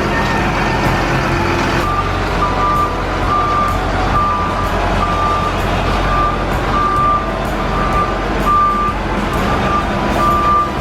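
Heavy machine's engine running with its reversing alarm beeping at an even pace, about one and a half beeps a second, starting about two seconds in.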